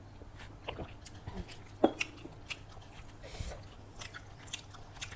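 A person chewing a mouthful of chicken biryani, with a run of short wet mouth smacks and clicks. The loudest smack comes a little under two seconds in.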